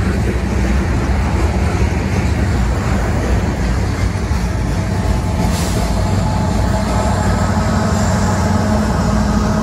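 Freight train rolling past at close range: a steady loud rumble of wheels on rail from hopper and tank cars. About halfway through, steady higher tones join in, as a mid-train CSX diesel locomotive passes with its engine running.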